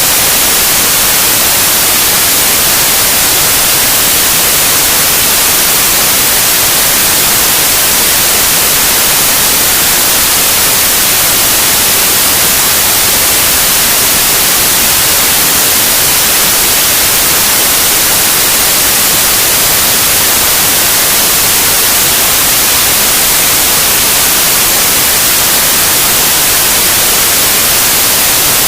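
Loud, steady white noise: an even hiss across the whole range, brightest in the highs, with no change.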